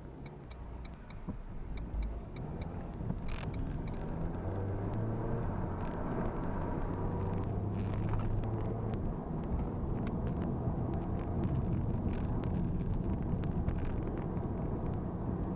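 Car engine running, building in level over the first few seconds as the car pulls away, then running steadily. Quick runs of light ticks sound in the first few seconds.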